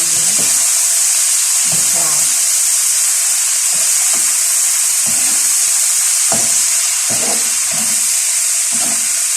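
Fava beans and chicken frying in a pan with a steady, loud sizzle. Short knocks of stirring come every second or two.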